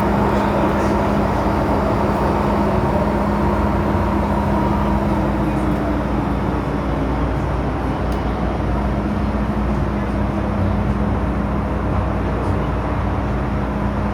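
Cabin noise inside an MTR M-train electric multiple unit: a steady rumble with a constant low hum, and a faint higher tone that fades away in the first few seconds.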